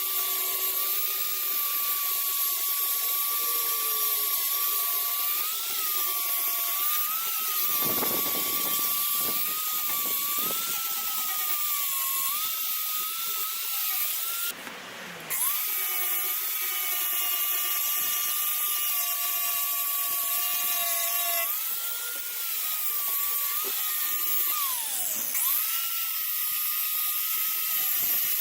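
Air-powered Harbor Freight 6-inch dual-action sander running with a steady high whine and air hiss. It spins down and starts again twice, about halfway through and near the end.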